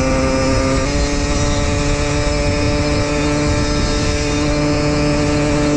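Beta RR 50 enduro's two-stroke single-cylinder engine running at high, steady revs under way, its note stepping slightly higher about a second in and then holding.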